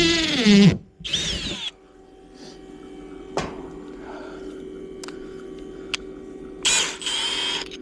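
A cordless power drill or driver running in two short bursts, about a second in and again near the end, with a few sharp clicks and a low steady hum in between. A wavering pitched, voice-like sound cuts off just before the first burst.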